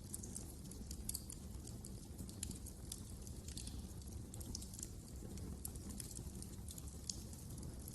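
Wood fire crackling in a fireplace: frequent, irregular sharp snaps and pops over a low steady rumble of the flames.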